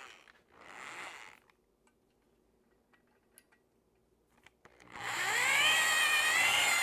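Electric drill spinning a cylinder hone inside the bore of a Yamaha 250 outboard's cylinder block, starting up about five seconds in and running with a wavering whine as the hone works the bore. Before it, two short hissing swishes.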